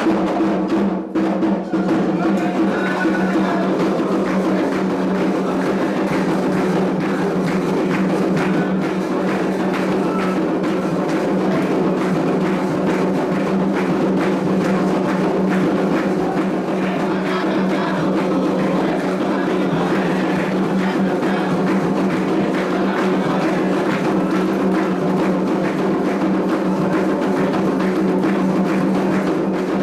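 Candomblé ritual drumming on atabaque hand drums, a fast, dense and continuous beat.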